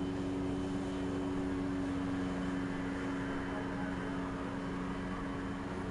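A steady, even hum with a few low constant tones, like a fan or other small machine running, and nothing else standing out.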